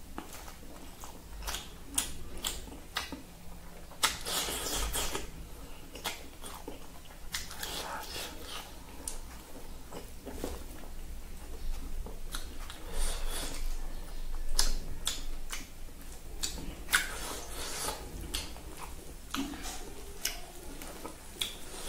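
Close-up eating sounds: a mouthful of rice and curried food being chewed with wet lip smacks and mouth clicks, with a few longer rustling stretches as the food is worked by hand on a plastic plate.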